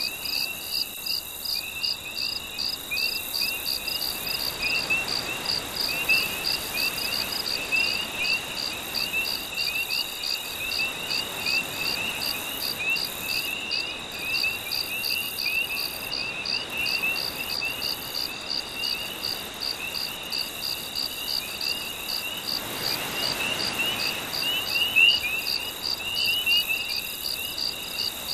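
Night insects chirping in a steady, evenly pulsing rhythm with a continuous high trill, mixed with many quick frog-like calls, over a soft wash of gentle sea waves that swells briefly about three-quarters of the way through.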